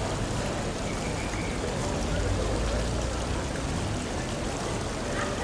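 Steady rushing and splashing of water, with faint voices in the background.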